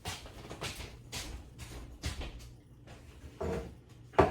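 Paper napkins being handled: a series of short rustles and soft knocks, the loudest near the end.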